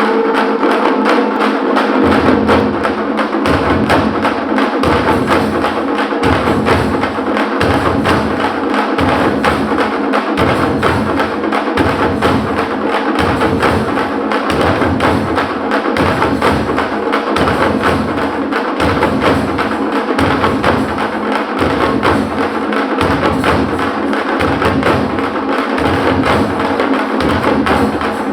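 Parai frame drums beaten with sticks in a fast, dense rhythm. About two seconds in, a steady beat of deeper strokes joins, less than a second apart.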